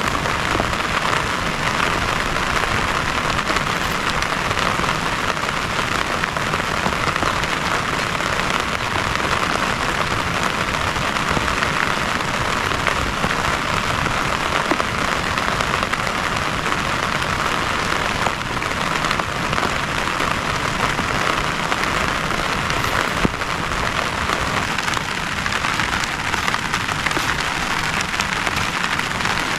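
Heavy rain falling steadily, with many small drop ticks against a constant hiss.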